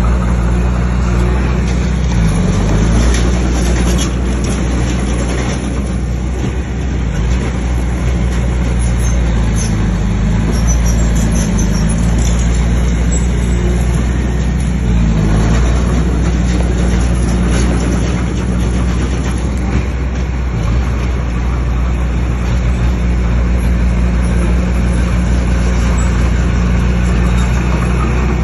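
Bulldozer's diesel engine running steadily under work, its pitch dipping briefly a few times.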